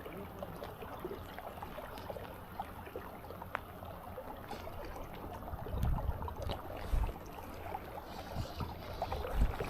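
Steady rushing of river water, with a few short low rumbles about six seconds in and again near the end.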